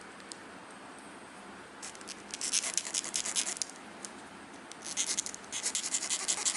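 Metal file rubbing on the cut end of a watch crown stem in quick, short scraping strokes, in two spells of a couple of seconds each, the first starting about two seconds in.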